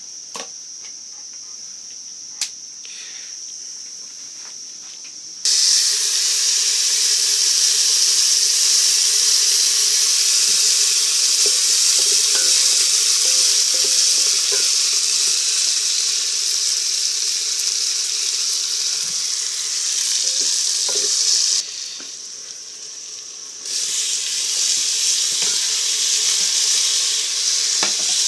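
Chopped greens sizzling as they fry in a pan over a wood fire while being stirred, their water cooking off. The sizzle starts suddenly about five seconds in, drops away for a couple of seconds near the end, then resumes. Before it starts, crickets trill steadily.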